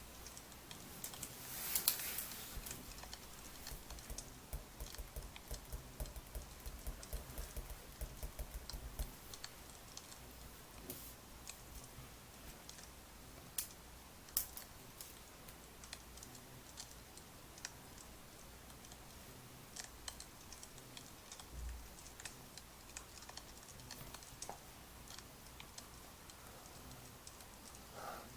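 Faint crackling of burning firewood: irregular small pops and clicks over a low hiss, packed closely for the first nine seconds or so, then sparse.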